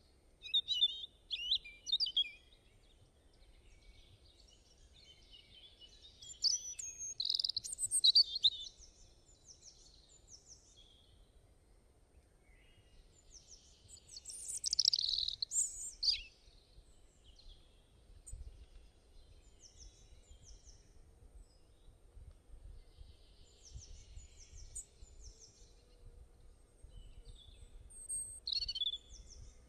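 Birds singing and chirping in a natural outdoor soundscape: high-pitched phrases come in louder bursts every several seconds, with quieter repeated chirps in between.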